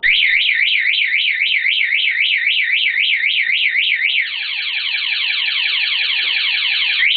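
Mini four-wheeler's electronic alarm siren sounding loudly. It warbles up and down about four times a second, then about four seconds in switches to a fast run of falling chirps, and cuts off just before the end.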